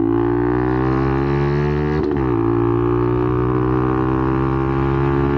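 Benelli TNT 125's single-cylinder engine, fitted with an aftermarket exhaust, pulling under acceleration with the revs climbing steadily. About two seconds in there is a brief dip in revs at a gear change, then the revs climb again.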